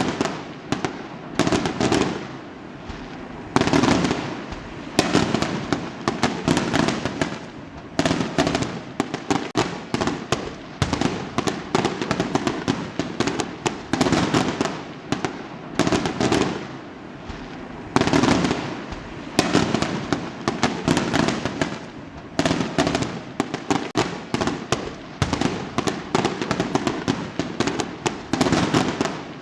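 Fireworks going off in quick succession: a dense run of bangs and crackling, with a louder burst every second or two.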